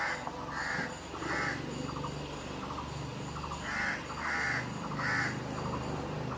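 Crow cawing: two runs of three caws, with a pause of about two seconds between the runs.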